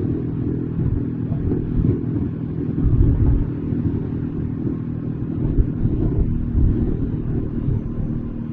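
Bajaj Dominar 400's single-cylinder engine running at a fairly steady speed, heard from onboard the motorcycle, with a low uneven rumble underneath.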